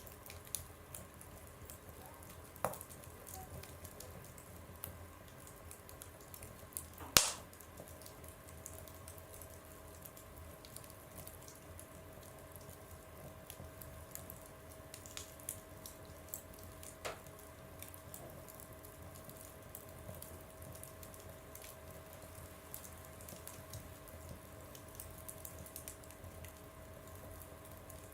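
Wood fire burning in a stove, crackling with scattered small clicks and occasional sharp pops, one much louder pop about seven seconds in. A faint steady whistle starts just after that pop and keeps going.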